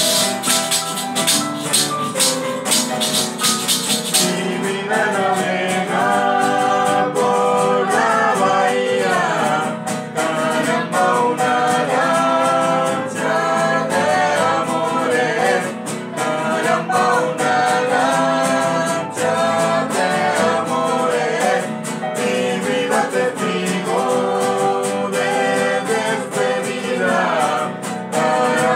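A cueca sung by voices over instrumental accompaniment. A fast shaken percussion rattle stands out for about the first four seconds, then the sung melody carries the rest.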